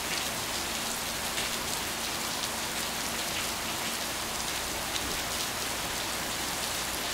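Steady rain falling: a dense, even hiss full of small drop ticks.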